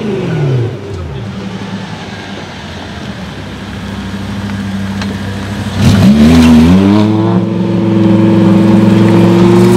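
Wiesmann roadster's engine: a rev dies away at the start and the engine idles, then about six seconds in it revs up sharply and holds a loud, steady note as the car accelerates away.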